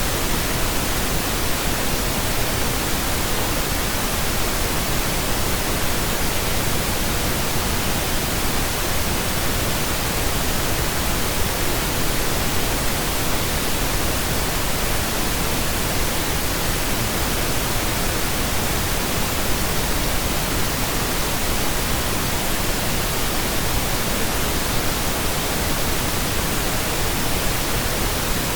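Steady pink noise: an even, unchanging hiss spread across low and high pitches, with no tones or events in it.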